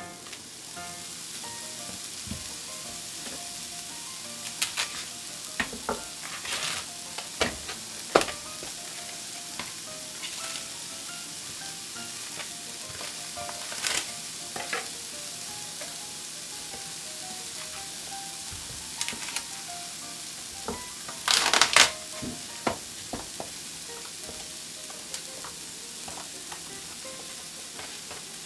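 Food sizzling steadily in an oiled frying pan, with a cooking utensil stirring and now and then knocking and scraping against the pan; the loudest run of scrapes comes about three-quarters of the way through.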